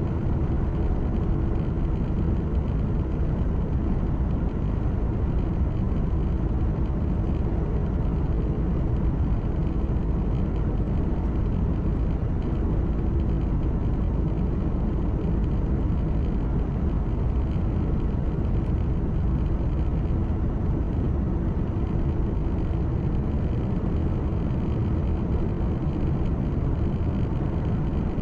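Steady low rumble heard from inside a truck's cab while driving: the engine's hum together with tyre and road noise, even and unchanging, with a faint steady hum above it.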